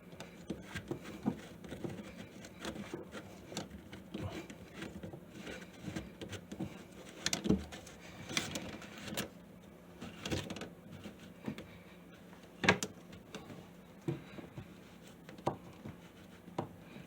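Scattered small clicks and knocks of sink drain parts being handled and fitted by hand as a bathroom sink's pop-up drain linkage is put back together, with one sharper knock near the end.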